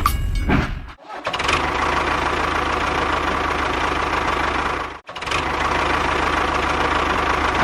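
A small motor running steadily with a fast, even chatter. It cuts off abruptly about one second in and again about five seconds in, resuming each time.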